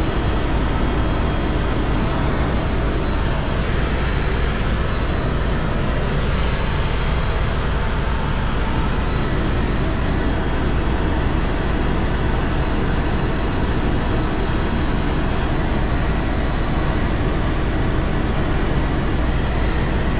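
Steady, unchanging engine and wind noise of a vehicle in motion, with a strong low rumble underneath.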